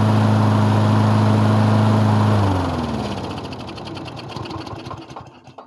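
Small single-cylinder Briggs & Stratton mower engine running steadily, then shut off about two seconds in and winding down, its strokes slowing until it stops near the end. The owner thinks this engine is burning oil.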